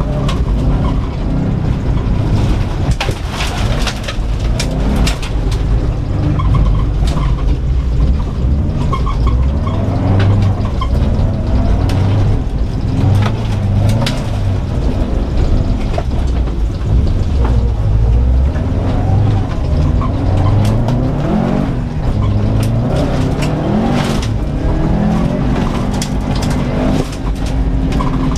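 Subaru Impreza WRX STI's turbocharged flat-four engine revving hard, heard from inside the cabin. The pitch keeps climbing and dropping as the car is driven through the course. Frequent sharp clacks and knocks of gravel and mud hitting the car run over a heavy rumble.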